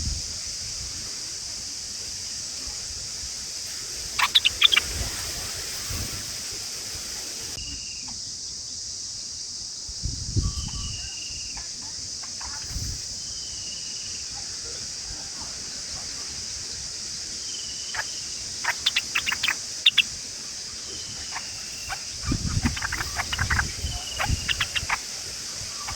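Steady high-pitched insect chorus, with a bird's short falling call repeated every two or three seconds. Scattered bursts of crackling clicks and low thumps come through, the loudest near the end.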